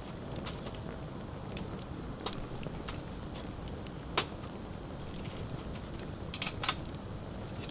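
Wood fire crackling in a fire stand, with scattered sharp pops over a low steady rumble; the loudest pop comes about four seconds in and a quick cluster follows near the end.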